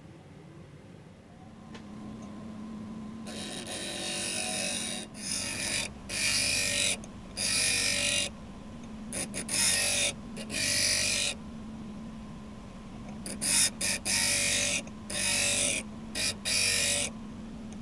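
A restored bench grinder's motor comes up to speed with a steady hum. From a few seconds in, repeated harsh grinding bursts follow, each lasting up to about a second and a half with short pauses between: metal being pressed against the spinning wheel in a test grind.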